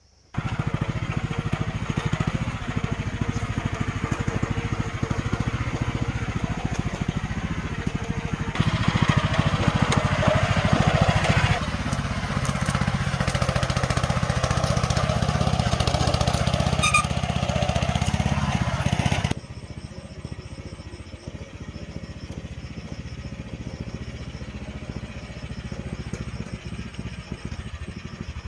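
A small engine running steadily with a fast, even pulse, in several abruptly joined stretches that are louder in the middle and quieter near the end.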